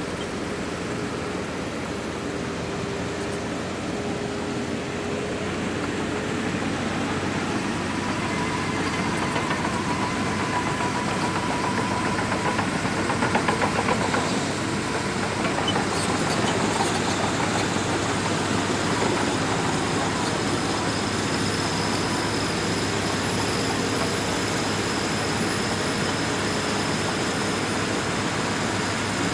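Crawler bulldozer's diesel engine running steadily under load, with the continuous clatter of its tracks. A thin high whine joins about halfway through.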